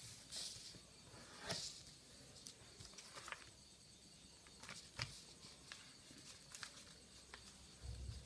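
A sheet of paper being handled and folded: faint scattered crinkles and short rustles, the clearest about a second and a half in and again at about five seconds.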